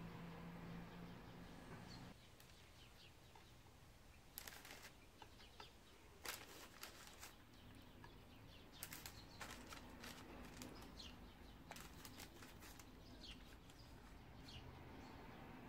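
Quiet room tone with small birds chirping faintly in the background, many short high chirps, and a few brief rustles. A low hum stops abruptly about two seconds in.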